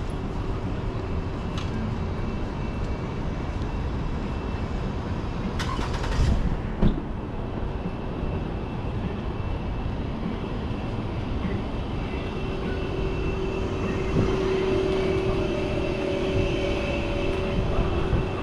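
Downtown street traffic: vehicles running by in a steady rumble, with a short hiss and a sharp knock about six seconds in and a steady hum building in the second half.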